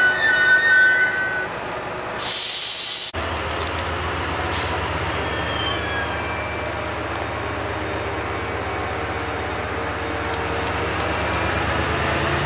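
A train at a station platform: high wheel squeal dies away in the first second and a half, then a loud hiss lasts about a second and stops abruptly. A steady low hum of a standing train follows.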